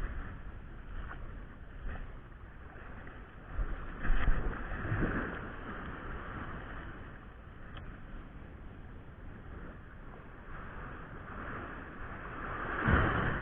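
Waves washing on the beach, with wind on the microphone; two louder swells of water, about four seconds in and near the end.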